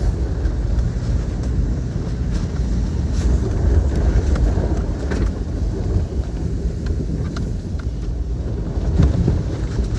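Toyota Tacoma pickup driving off-road: a steady low rumble of engine and tyres on the rough trail, with wind buffeting the microphone and a few light knocks.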